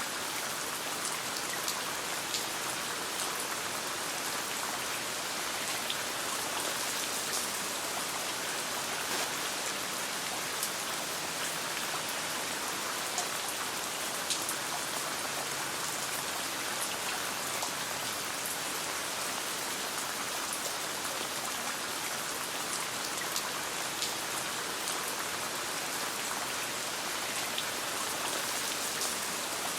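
Steady rain falling, with scattered sharp ticks and crackles throughout.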